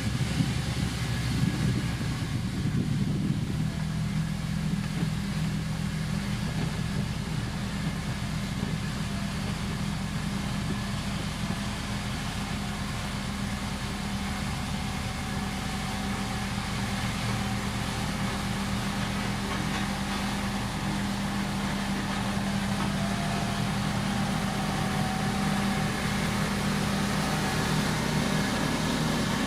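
Heavy road-construction machine's diesel engine running at a steady, even pitch.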